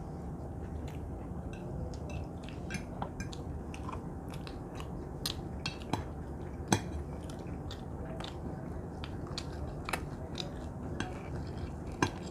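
Cutlery clinking and scraping on plates, with chewing, as beef steak is cut and eaten. Sharp clicks come irregularly, the loudest about seven seconds in.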